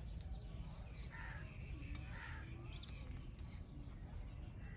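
A crow cawing twice, about a second apart, over a steady low background rumble.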